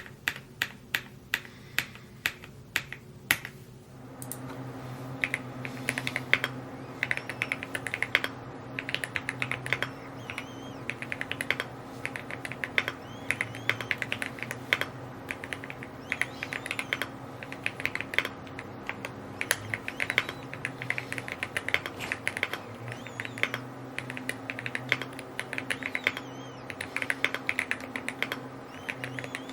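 Typing on a Rainy75 mechanical keyboard. A few separate keystrokes come first, then fast continuous typing starts about four seconds in, with a steady low hum under it.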